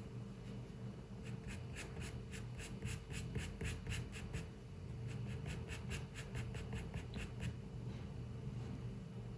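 Pencil scratching on paper in quick, evenly spaced strokes, about four a second, with a short pause in the middle, over a steady low room hum.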